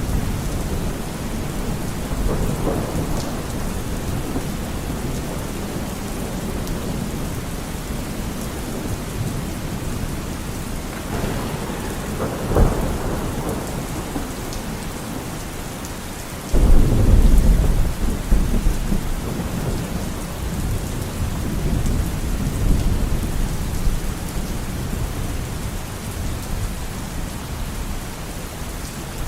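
Thunderstorm: steady rain with rolling thunder. A short crack comes about twelve seconds in, then a sudden loud low rumble a little past halfway that fades over a few seconds.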